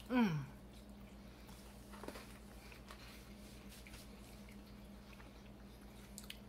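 A woman's short falling "Mmm" of approval, then quiet chewing of a bite of milk chocolate bar, with a few faint mouth clicks over a steady low hum.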